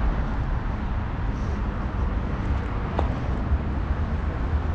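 Old tram running, a steady low rumble of motors and wheels on the rails, with a single sharp click about three seconds in.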